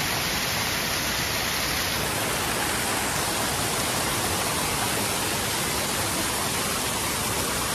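Waterfall pouring: a steady, loud rushing of falling water that does not change.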